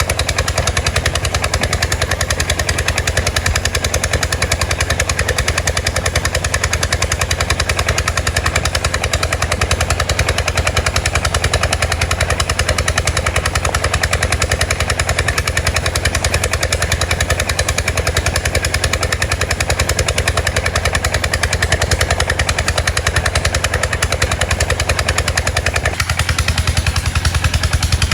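An unmuffled boat engine running steadily, its exhaust a rapid, even chatter of pulses.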